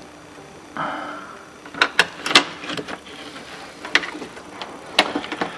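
Hand work on a pickup truck's door: a short scraping rustle about a second in, then a series of about six sharp clicks and knocks.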